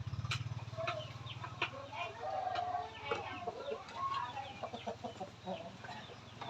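A flock of farm poultry clucking and calling in many short, overlapping calls. A small engine runs low at first and fades out about a second and a half in.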